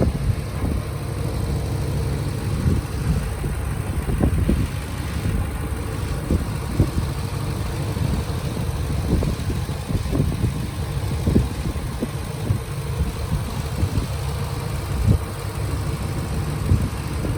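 A Ford Triton 5.4-litre V8 idling, a steady low running sound with irregular short thumps over it.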